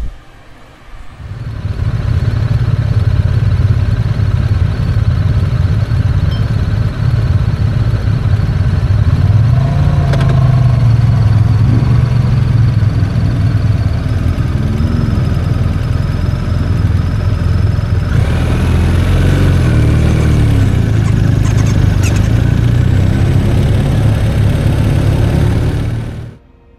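Motorcycle engine running, its pitch rising and falling with the throttle several times; it starts about a second and a half in and cuts off suddenly near the end.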